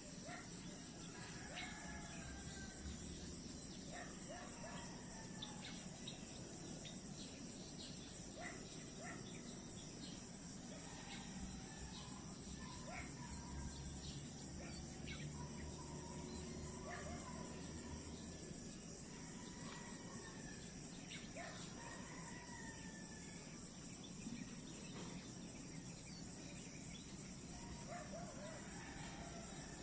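A steady, high-pitched chorus of crickets, with scattered short bird chirps over it.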